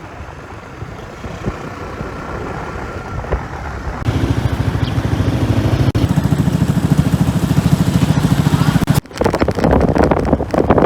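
Motorcycle engine running under way with wind noise on the microphone. About four seconds in it turns suddenly louder with an even engine pulse, and near the end it gives way to gusty wind buffeting.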